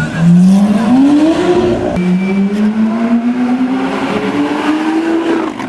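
Lamborghini Aventador's 6.5-litre V12 with a decatted exhaust accelerating hard. Its pitch climbs, drops sharply at an upshift about two seconds in, then climbs again through the next gear.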